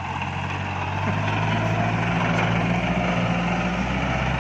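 Iseki NT554 tractor's diesel engine running steadily, its pitch shifting slightly about a second in.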